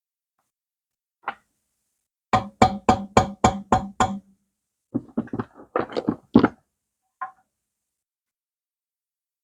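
Sharp taps of a hand tool on a metal engine part, each with a brief metallic ring. One tap comes first, then a run of seven evenly spaced strikes at about three a second, a ragged cluster of knocks, and a last tap near the end.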